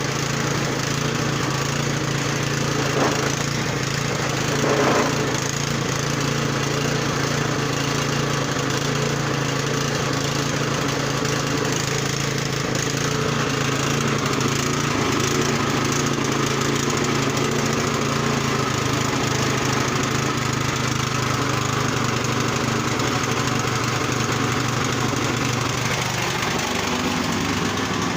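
Yard Machines snow blower's small gasoline engine running steadily at an even pitch after its carburetor was cleaned, a sign that the repair has it running again. A couple of brief clatters a few seconds in, and the pitch dips near the end.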